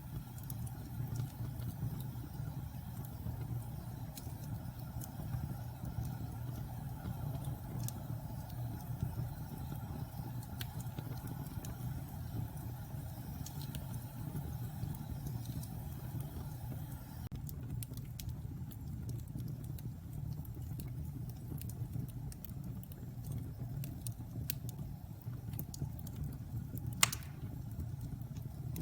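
Wood fire burning in a fireplace: a steady low rumble with scattered small crackles, and one sharp, loud pop near the end.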